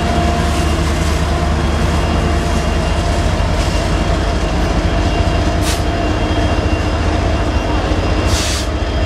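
Union Pacific freight train passing close by: the diesel-electric locomotive's engine running with a steady low rumble, then autorack cars rolling past on the rails. Two short bursts of hiss come about five and a half and eight and a half seconds in.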